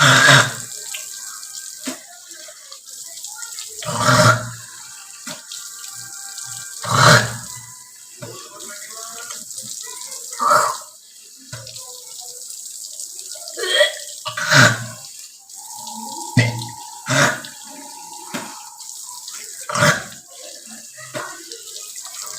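Tap water running into a sink, with a person hawking and clearing the throat loudly about nine times, a few seconds apart.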